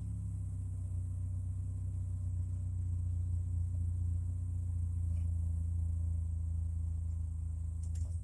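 2008 Chevy Malibu's engine idling steadily through a muffler-delete exhaust with a deep, low drone, cutting off abruptly at the end as the engine is shut off.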